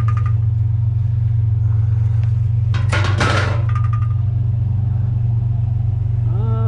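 Steady low drone of a motor vehicle running, with a short noisy burst about three seconds in.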